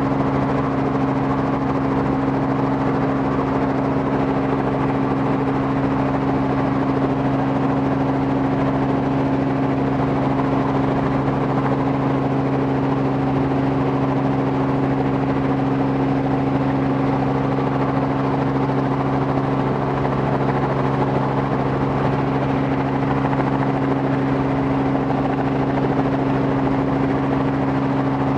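Robinson R44 helicopter running steadily, its engine and rotors making an even, unchanging drone at a constant pitch.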